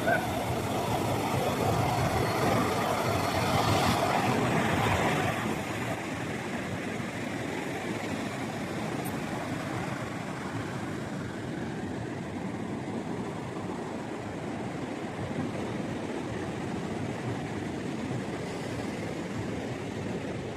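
Ocean surf rushing on the beach as a steady wash of noise, swelling louder for the first five seconds or so, then settling.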